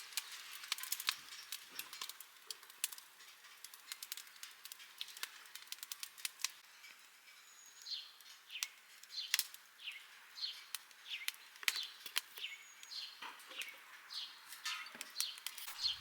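Faint campfire crackling with irregular sharp pops. From about halfway through, a small bird calls with short falling chirps, about two a second.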